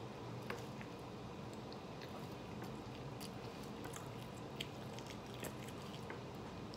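A person chewing a mouthful of hamburger, with faint wet mouth sounds and scattered small clicks.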